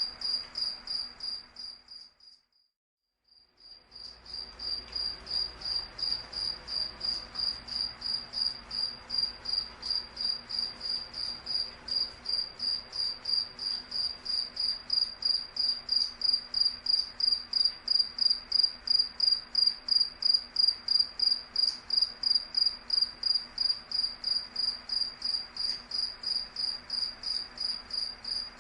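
A cricket chirping in a fast, even rhythm at one high pitch. About two seconds in, the chirping fades out for a second and a half, then fades back in and carries on steadily.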